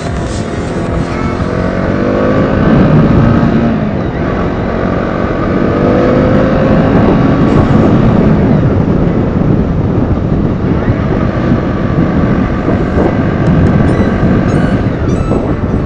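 KTM Duke 200's single-cylinder engine pulling the bike along on the road, its pitch rising a few times as it revs up through the gears, over a steady rush of wind and road noise.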